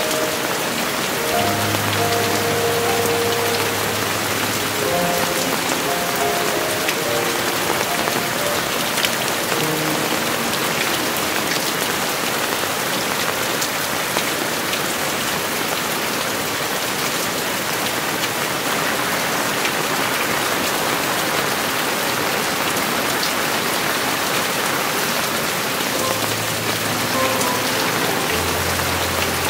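Heavy rainy-season downpour falling steadily in a dense, even hiss. Soft background music plays under it in the first few seconds and comes back near the end.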